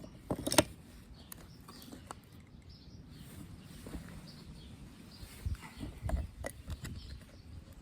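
Pieces of ice knocking and clinking together as they are handled and stacked: a sharp clink about half a second in and several softer knocks in the second half. Faint birds chirp in the background.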